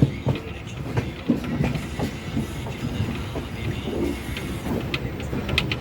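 A train moving along the tracks: a steady low rumble with scattered sharp clicks from the wheels and rail joints.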